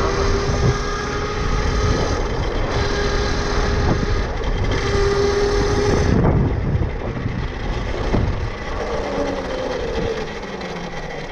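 Electric dirt bike's motor whining at a steady pitch that rises slightly as it gathers speed, over a rushing wind noise. About six seconds in, the whine drops away and the rush eases as the bike slows.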